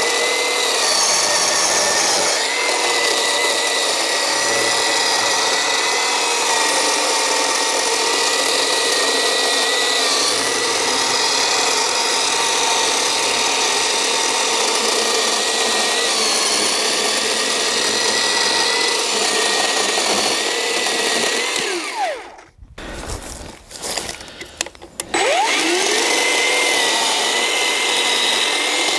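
Black+Decker GKC3630L20 36 V cordless electric chainsaw running steadily with a high motor whine while cutting through a log. About 22 s in the trigger is let go and the motor winds down. About three seconds later it spins back up with a rising whine.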